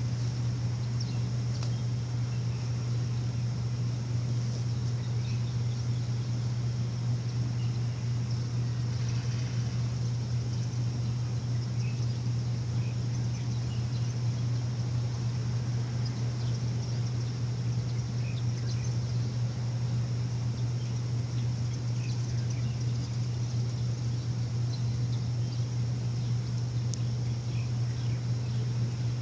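A machine running with a steady low hum that does not change, while birds chirp faintly and briefly here and there over it.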